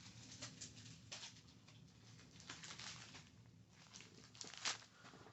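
Faint, irregular soft scratching and brushing strokes of an ASMR trigger, about a dozen in all, with one sharper louder stroke near the end.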